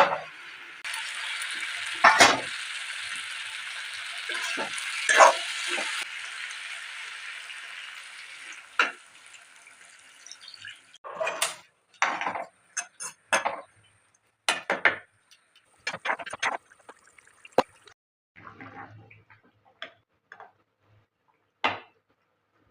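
Cooking sounds: a steady hiss of liquid for about ten seconds with a few loud knocks of a utensil against a pot. After that comes a run of separate clinks and knocks of metal utensils and pots.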